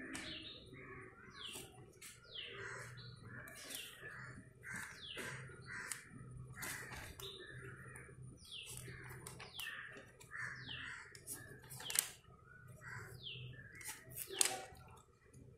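Small birds chirping over and over, each chirp a quick falling note, with paper rustling and a couple of sharper crackles as the scrapbook's pages are handled and turned.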